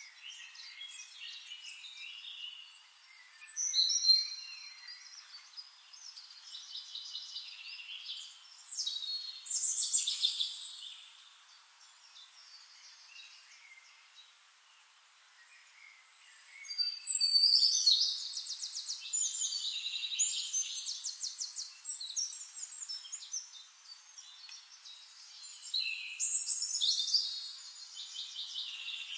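Small songbirds chirping and singing in bursts, with rapid trills loudest a little past halfway and again near the end.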